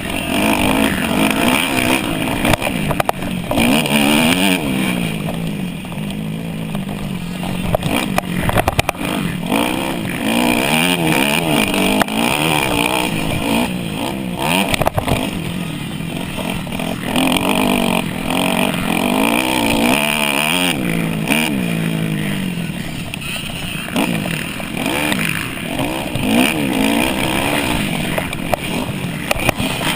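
Dirt bike engine at race pace, revving up and falling back over and over as the rider opens the throttle and shifts, heard close from a camera on the bike.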